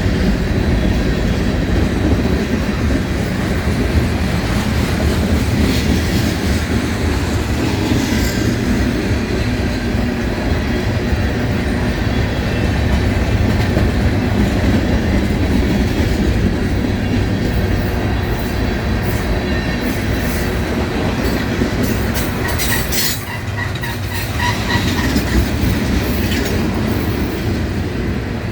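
A train rolling past on the rails, a steady loud rumble of wheels with clickety-clack over the rail joints, and some wheel squeal with thin high tones late on.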